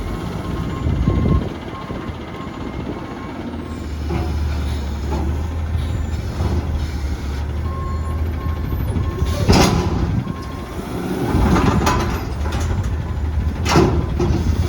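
Front-loader garbage truck working: its diesel engine running with a backup alarm beeping, then three loud metal bangs in the second half as the dumpster is emptied into the hopper.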